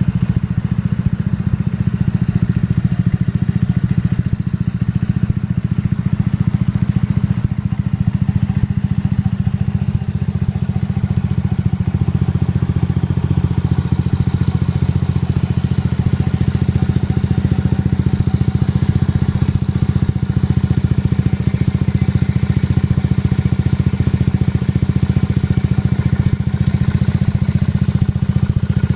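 Suzuki Address V125G scooter's 125 cc single-cylinder four-stroke engine idling steadily through a baffle-less Realize 22 Racing titanium exhaust, a loud, deep, even note with no revving.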